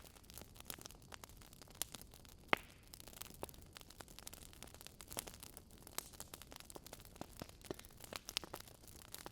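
Fire crackling in a fireplace: irregular pops and snaps over a soft hiss, with one sharper pop about two and a half seconds in.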